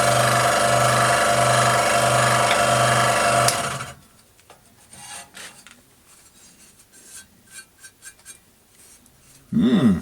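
Scroll saw running with its blade cutting 3 mm brass plate in a steady rasp, then switched off and winding down about three and a half seconds in. Light handling clicks follow, and there is a brief sound falling in pitch just before the end.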